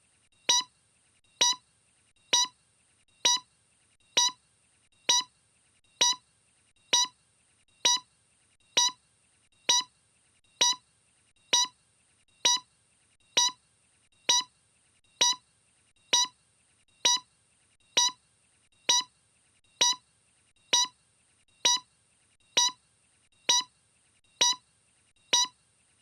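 A short electronic beep repeating at an even pace, a little faster than once a second.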